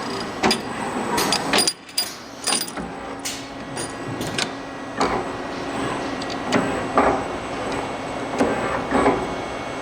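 Marushow MB12-3DT-2H 3D wire bending machine running: a steady motor hum with irregular sharp metallic clicks and clunks from its moving parts.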